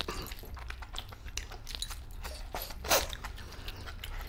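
Chewing and mouth sounds of a man eating mutton and chicken curry with rice by hand: irregular small clicks and crunches, with one louder burst about three seconds in.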